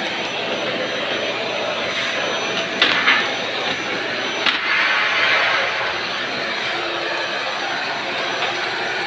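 Vacuum cleaner running steadily with a high motor whine, picking up on a kitchen floor; two short clacks about three and four and a half seconds in.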